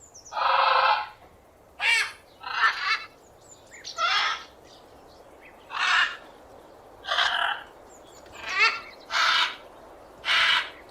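Parrot squawking: a string of about nine short, harsh, screechy calls, roughly one a second, some with a rising and falling pitch.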